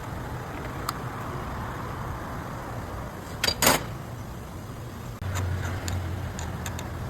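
A car's steady low running hum, with a sharp knock about three and a half seconds in and a lighter click about a second in. The low hum steps up in loudness about five seconds in.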